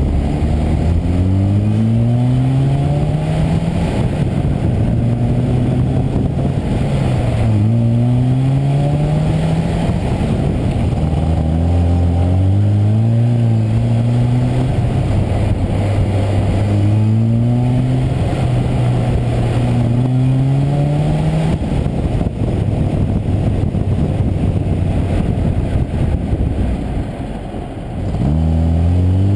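Classic Mini Cooper S's four-cylinder A-series engine pulling through the gears, its pitch climbing and then dropping at each change, several times, with stretches of steady cruising between. A brief lift-off near the end is followed by another pull. Road and wind noise are heard from a microphone mounted outside the body by the front wheel.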